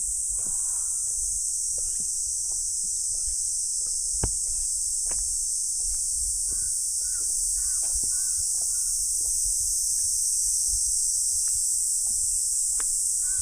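Steady high-pitched insect chorus in a forest, with short repeated chirps partway through and again at the end. Scattered soft clicks run underneath, with one sharper click about four seconds in.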